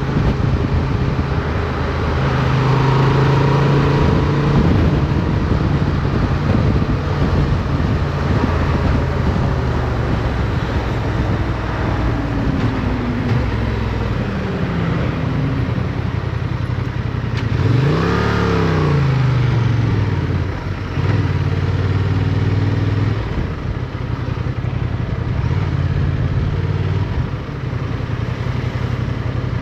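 Motorcycle engine running under way, heard from an onboard mount with wind and road noise, its pitch rising and falling as the throttle opens and closes, with a pronounced rev up and back down about halfway through.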